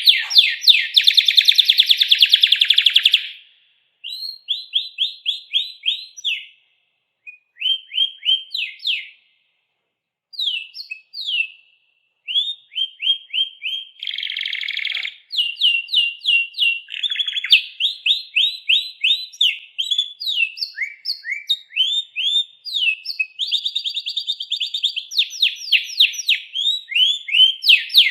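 Songbird singing in phrases of rapid, repeated, down-slurred notes and trills, with short silent pauses between phrases. A dense trill opens the passage and stops about three seconds in.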